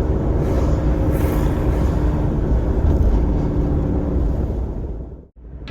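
Car on the move: steady engine and road rumble that fades and cuts off abruptly near the end.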